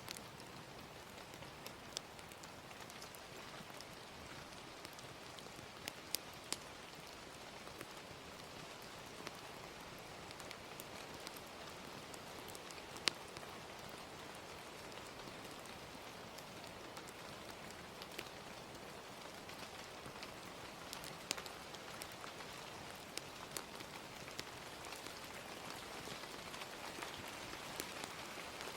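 Steady, gentle rain hiss with scattered sharp crackles and pops from a wood fire, one louder pop near the middle.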